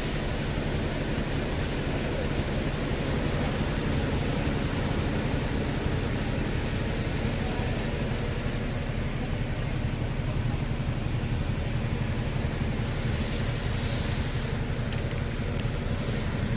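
Scania R tractor unit's diesel engine running steadily at idle, a low even hum. A few sharp clicks near the end.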